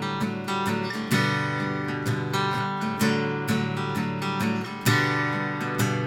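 Acoustic guitar strummed and picked in an instrumental passage between sung lines, with sharp strokes about a second in and again near five seconds.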